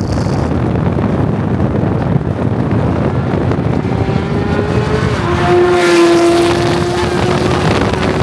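Car driven hard at highway speed: dense engine, road and wind noise. The engine note climbs, then drops about five seconds in as it shifts up, and holds steady after.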